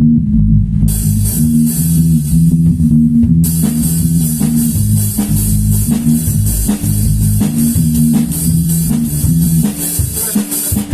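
Rock band playing an instrumental passage: guitar and bass riff over a drum kit, with cymbals coming in about a second in and getting louder a few seconds later.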